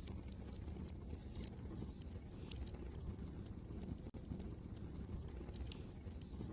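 Wood fire crackling, with many irregular sharp pops and ticks, over a steady low rumble of wind.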